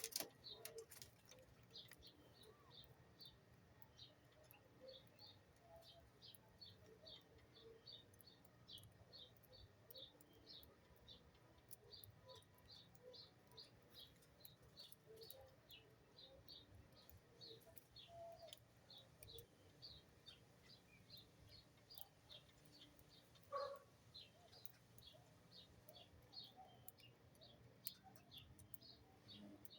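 Small birds chirping faintly, a steady run of short high chirps a few times a second, with scattered lower call notes and one brief louder note about two-thirds of the way through.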